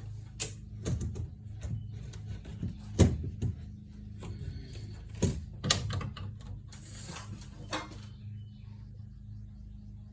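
Scattered sharp clicks and knocks, the loudest about three seconds in, with a brief rustling hiss about seven seconds in, over a steady low hum.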